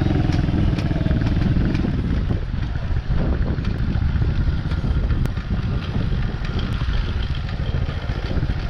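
DB14 dirt bike's small engine running under way, with its note and loudness shifting unevenly as the throttle changes, and small rattles over it.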